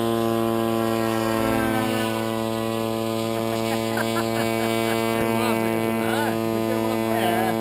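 Steady electrical-sounding hum with a stack of even overtones, holding one pitch throughout, with faint wavering pitched sounds over it in the second half.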